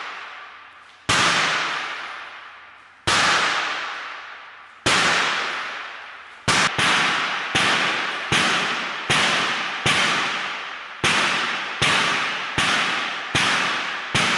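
Repeated sharp sledgehammer blows on a laminated car window, each ringing out slowly. They come about two seconds apart at first and then quicken to more than one a second. The glass does not give way.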